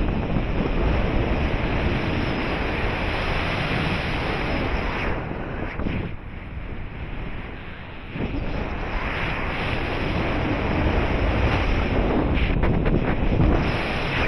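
Airflow rushing over the microphone of a paraglider in flight, a steady wind noise that eases for a couple of seconds about halfway through and then builds again.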